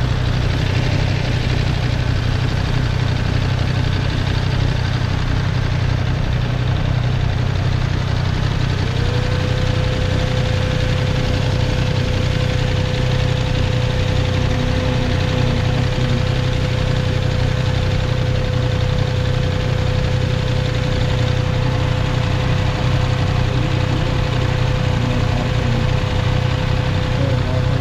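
2024 Triumph Street Triple's 765 cc inline three-cylinder engine idling steadily, with no revving. A thin steady whine joins about nine seconds in.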